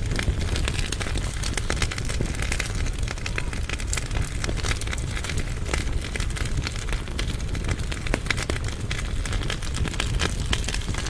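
Firewood burning in a fireplace firebox: many irregular crackles and pops over a steady low rumble of the flames.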